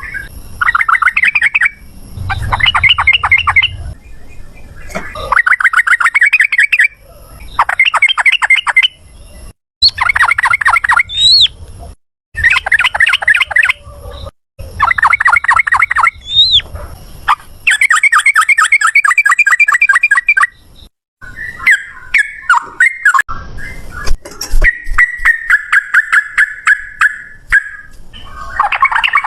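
Yellow-vented bulbul (trucukan) singing its rapid chattering 'ropel' song: a run of fast trilled bursts of one to two seconds each with short breaks between them. Late on, scattered notes, a held note and a quick series of clicking notes lead back into dense trilling.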